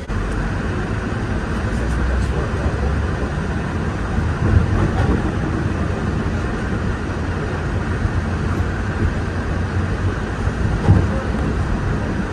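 Walt Disney World monorail train running, heard from inside the car: a steady low rumble and hiss, with brief knocks about four and a half and eleven seconds in.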